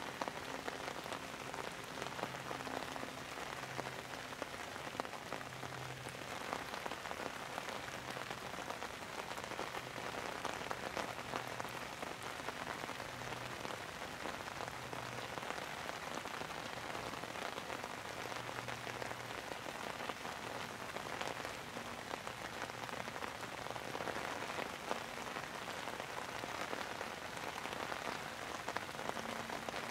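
Steady rain falling, with many small drops ticking. The level stays even throughout.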